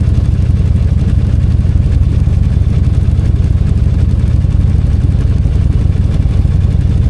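Motorcycle V-twin engine running steadily with a deep, even low note, neither revving up nor dropping off.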